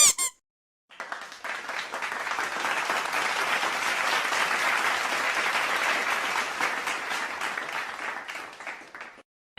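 Crowd applauding, a dense patter of many hands clapping. It starts about a second in and dies away near the end.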